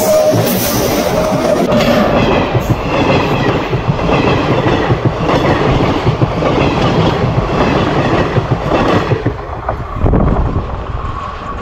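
Passenger train coaches rolling past right beside the rails: a loud rumble with wheels clattering over the track. The noise falls away near the end as the last coach goes by.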